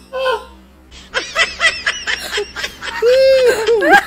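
People laughing. A single laugh, a short lull, then loud overlapping laughter from a man and a woman, with a drawn-out high squeal a little past three seconds in.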